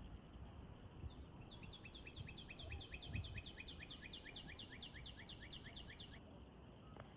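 A bird calling faintly in a fast, even series of short downward-slurred high notes, about six a second, starting about a second in and stopping about six seconds in, over a faint low rumble.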